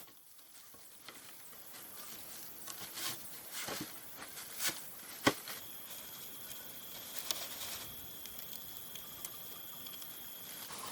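Scattered light taps and knocks, with one sharper knock about five seconds in, over a faint steady high-pitched tone.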